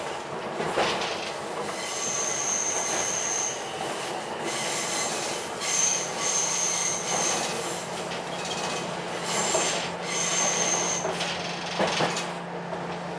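Ichibata Electric Railway 7000-series electric train running on the line. Its wheels squeal in high steady tones three times, each lasting a second or so, over the running noise, with a couple of rail-joint knocks.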